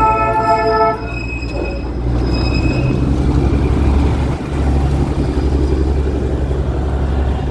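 Darjeeling Himalayan Railway toy train: its horn sounds with several notes at once and stops about a second in. After that the train runs with a steady low rumble.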